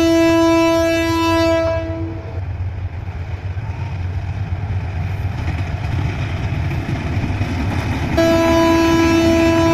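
Diesel locomotive's horn sounding a long steady blast that stops about two seconds in, then the low rumble of the train running into the station, then the horn sounding again near the end.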